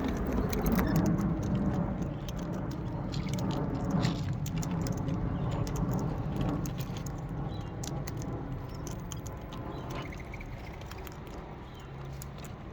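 Parrots chewing and cracking food close to the microphone: many small irregular clicks and crunches over a low rustling rumble.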